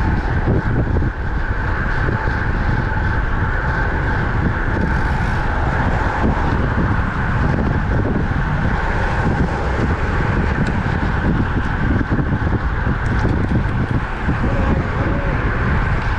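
Wind rushing over the microphone of a road bike moving at speed, steady and heavy in the low end, over a constant higher hum.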